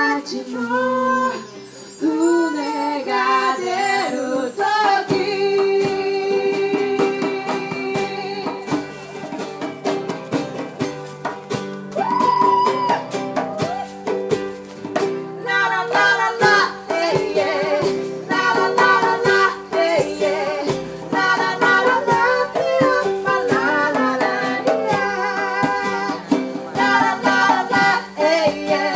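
Acoustic band music: singing over plucked string instruments, with held notes in the middle and quicker plucking from about halfway through.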